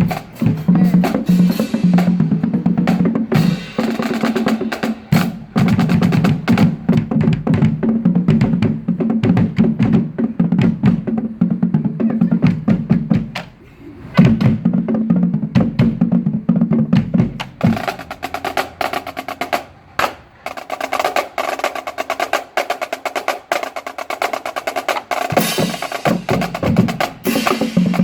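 Marching band drumline playing a fast cadence: dense snare strikes and rolls over low drums. About seventeen seconds in the low drums drop out and lighter, higher clicking strikes carry on, then the low drums come back in near the end.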